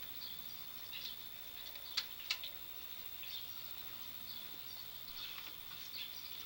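Faint outdoor background of scattered short high chirps over a steady faint high tone, with two sharp clicks a fraction of a second apart about two seconds in.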